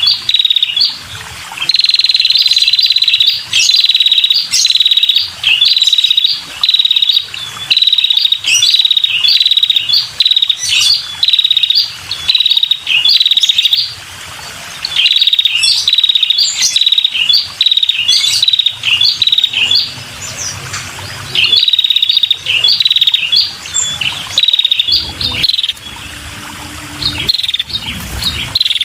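Female red-headed prenjak (a small warbler-like songbird) calling persistently: loud, short, buzzy chirps repeated about once or twice a second in long runs, with a few brief pauses.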